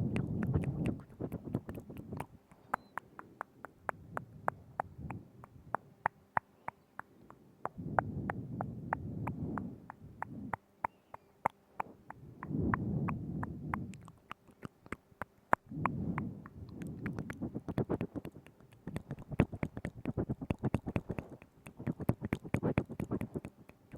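Close-up wet mouth sounds into a binaural microphone: quick tongue and lip clicks and smacks, many a second, with low muffled stretches every few seconds.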